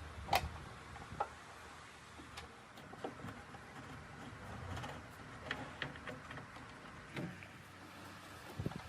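Irregular light clicks and knocks of metal parts and hand tools being handled while taking the motorcycle apart, with a sharper click a moment in.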